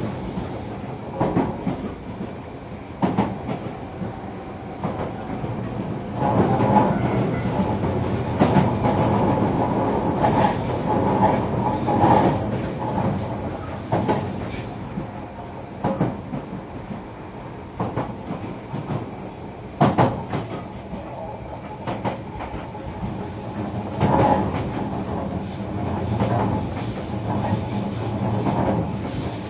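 Inside a JR Kyushu 305 series electric multiple unit's motor car running between stations: a steady running rumble of wheels on rail, with sharp clicks now and then as the wheels cross rail joints. The sound grows louder about six seconds in.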